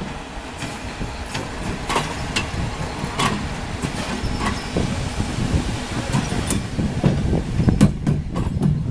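A train rolling past: a steady low rumble of wheels on the rails, broken by frequent irregular clicks and clatters, growing a little louder near the end.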